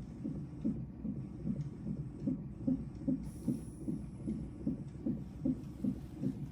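Fetal heart monitor's Doppler ultrasound playing an unborn baby's heartbeat at about 25 weeks of pregnancy: fast, even pulses at about two and a half a second, a normal fetal heart rate.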